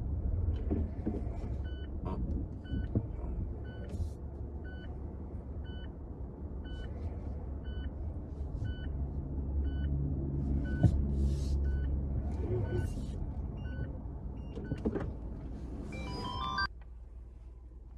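Mazda CX-8 rolling with low road rumble, its brakes giving short high squeaks about twice a second, a repeating chirp like a rub once per wheel turn. This is the abnormal brake noise the owner took to the dealer. Near the end a brief cluster of higher squeaks, then the sound cuts off abruptly.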